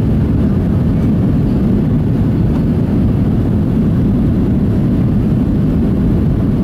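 Steady, loud low rumble inside the cabin of a Boeing 737-700, its CFM56-7B jet engines running.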